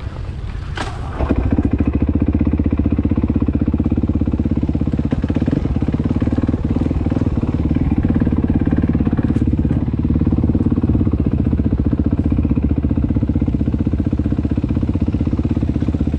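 Dirt bike engine running at a steady speed, starting suddenly and close about a second in, with an even pulsing beat and no revving.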